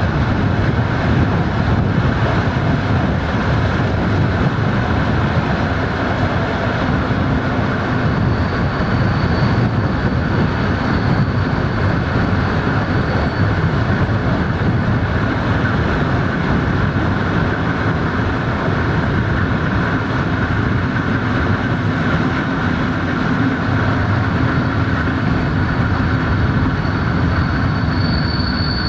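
Running noise of a moving passenger train heard from an open coach window: a steady rumble of wheels on rails with air rushing past. A faint high wheel squeal comes and goes about ten seconds in and rises sharply near the end.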